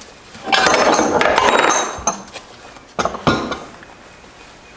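Metal hand tools and transmission parts clinking and clanking on a workbench: a loud rattling scrape about half a second in, then a few sharp knocks near the middle.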